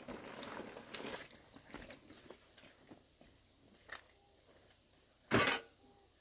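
A steady high chirring of insects in the background, with scattered light knocks and rustles of handling, and one short, loud rustle or thump about five seconds in.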